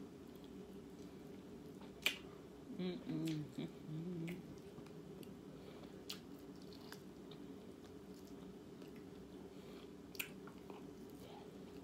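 A person chewing food close to the microphone, with a few sharp mouth-smacking clicks and a brief hummed voice sound about three seconds in, over a steady low hum.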